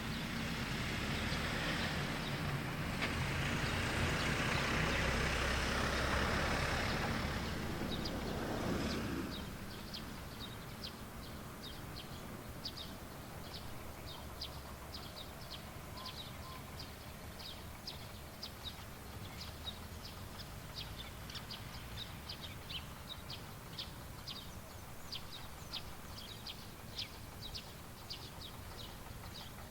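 A motor vehicle passes, its engine and road noise swelling and then fading away about nine seconds in. After it, quick high chirps repeat a few times a second.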